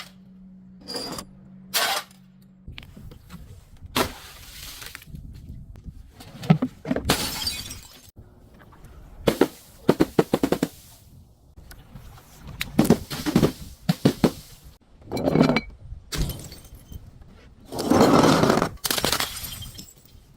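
Glass and other brittle things being crushed and broken: a string of separate cracking, crunching bursts a second or two apart, the longest near the end.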